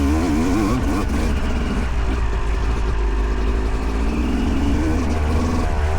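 2008 Yamaha YZ250 two-stroke single-cylinder dirt bike engine being ridden hard, revs rising and falling rapidly for about the first second, then holding steadier before dipping shortly before the end.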